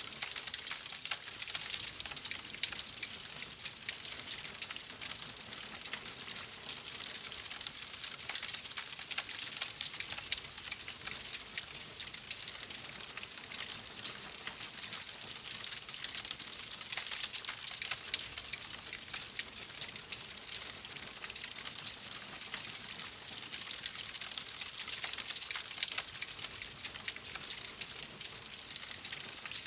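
Wood fire in a fireplace crackling steadily: a dense stream of small snaps and pops over a soft hiss.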